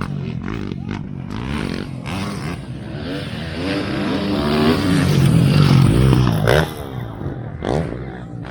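Motocross bike engine revving, pitch rising and falling, loudest past the middle and dropping off sharply about six and a half seconds in.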